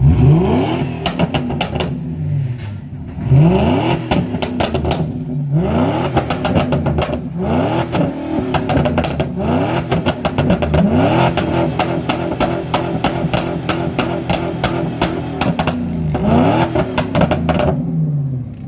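Car engine revved repeatedly in short blips, the pitch rising and falling again every second or two. Its exhaust pops and crackles between the revs.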